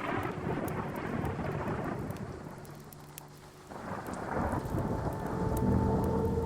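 Steady rain with rolling thunder. The rumble dies down about three seconds in, then swells again a second later.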